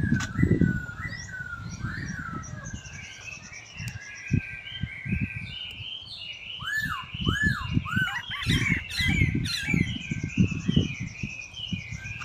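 Birds chirping and twittering in a busy run of short repeated notes, with three arching calls in a row about seven seconds in. Irregular low thumps lie underneath.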